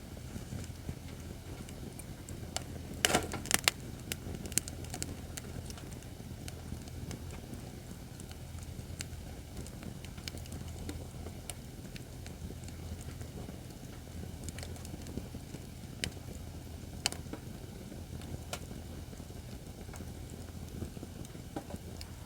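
Acacia firewood burning in a fire pit, crackling with scattered sharp pops over a steady low rumble; a quick cluster of loud cracks comes about three seconds in, with a few more single pops later.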